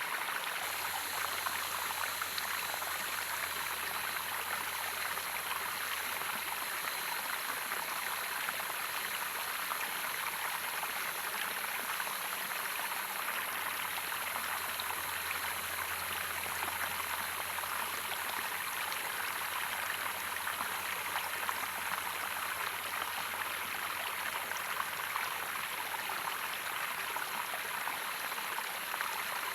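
Water running and splashing over a small waterfall, a steady, even rush with no change, and a faint low hum underneath from about a second in.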